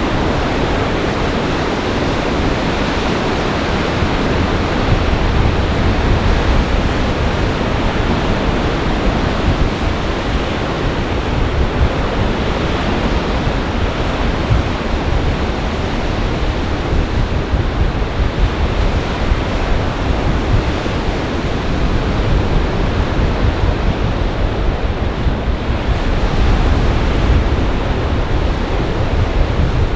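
Storm surf on a large lake pounding and rushing under gale-force winds, with wind buffeting the microphone in a steady low rumble.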